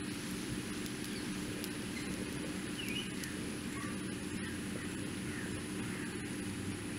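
Sliced green chillies frying in oil in a wok: a steady low sizzle with faint scattered pops. A few faint, short bird calls sound in the background.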